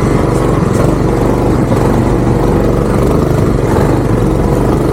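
The 196cc single-cylinder engine of a Coleman BT200X minibike, fitted with a stage one kit and header pipe, running at a steady speed with no clear revving.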